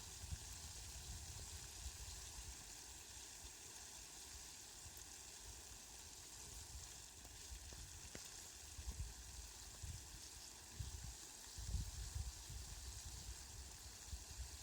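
Steady hiss of falling rain, fairly faint, with brief low rumbles now and then, most around the last few seconds.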